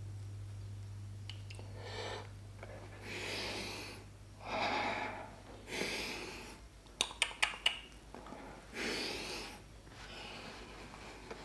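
Eating sounds from chewing a crumb-coated mozzarella corn dog: a series of breathy, noisy chews and breaths about a second long each, with four quick sharp clicks about seven seconds in.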